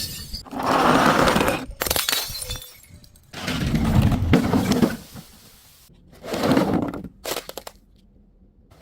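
Glass bottles breaking and crunching in several separate bursts, each a second or so long, with abrupt cut-offs between them.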